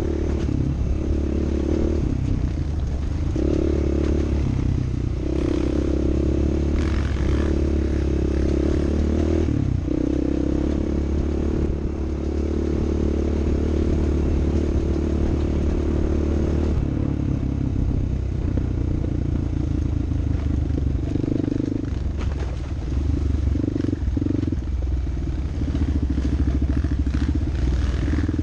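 An off-road vehicle's engine running, its pitch stepping up and down with the throttle, over a low rumble.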